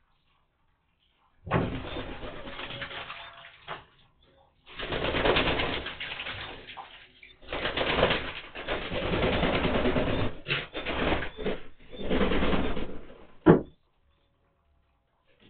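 Racing pigeons bathing in a large plastic tray of water: several long bursts of splashing and wings beating in the water, with one sharp, loud splash near the end.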